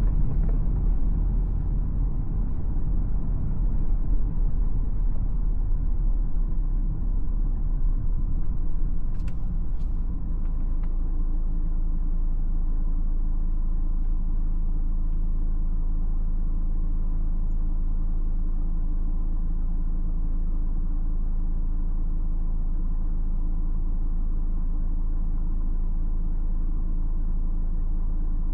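BMW X4 xDrive20d's 2.0-litre four-cylinder diesel and the car's road rumble while driving, with two brief clicks about nine seconds in; after about eleven seconds the sound settles into an even, steady low hum, as at idle.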